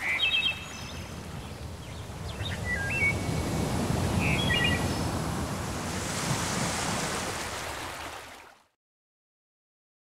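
Natural-ambience recording of birds chirping in short trills over a swelling wash of water. It fades out to silence about eight and a half seconds in.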